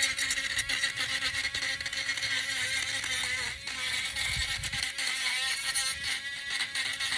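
Small electric sander running steadily, its hum overlaid with a scratchy grinding as it takes burrs off the edges of a workpiece.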